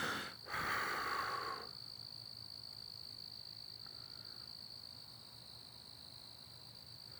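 Crickets trilling in one steady, unbroken high-pitched drone. A short hissing burst of noise comes in the first second and a half.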